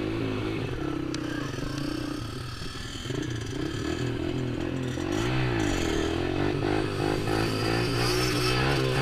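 Small off-road motorcycle or quad engine running at fairly steady revs. About five seconds in, it revs up quickly and drops back.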